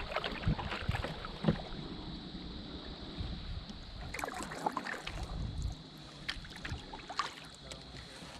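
Kayak paddling on a shallow river: irregular paddle strokes and water splashes, with scattered sharp clicks and knocks.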